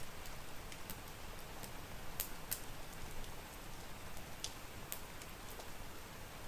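Steady rain hiss with a wood fire crackling over it: scattered sharp pops, the loudest a pair about two seconds in and another pair between four and five seconds in.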